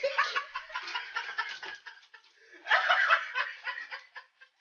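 People laughing in two bouts of rapid, breathy snickering and chuckling, the second bout about halfway through.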